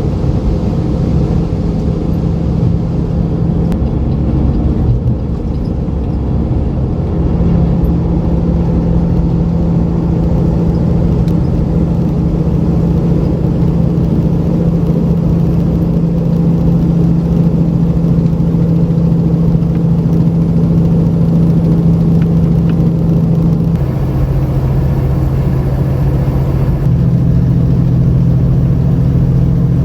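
Semi truck's diesel engine running steadily as the truck drives, with a low hum that changes pitch a few times: once about four seconds in, again near the middle and twice near the end.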